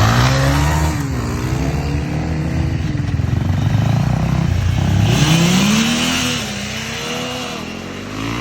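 A vehicle engine revving and easing off again and again, its pitch rising and falling several times.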